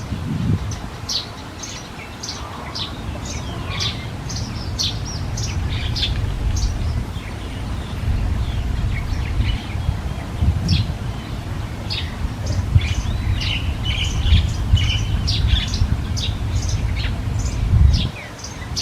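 Small birds chirping in quick succession, many short high chirps that sweep downward, over a steady low rumble that cuts off near the end.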